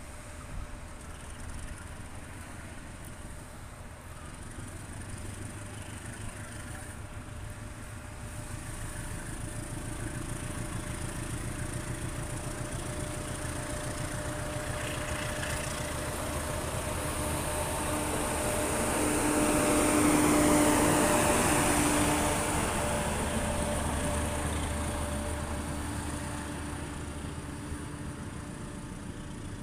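Diesel-hauled passenger train pulling out and rolling past on the rails, the wheel and track noise with a steady engine hum. It grows louder to a peak about two-thirds of the way through as the rear coaches pass, then fades as the train draws away.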